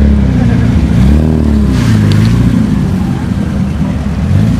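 Car engine revving as the car pulls away, its pitch rising about a second in, then falling and rising again as the driver works the throttle.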